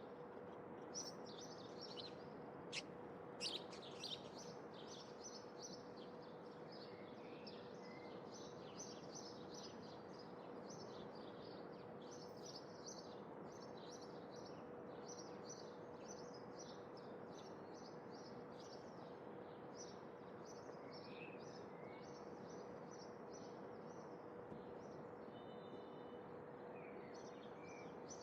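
Small birds chirping and twittering steadily and faintly over a constant background hiss, with a few louder, sharper calls in the first few seconds. A faint steady hum runs underneath.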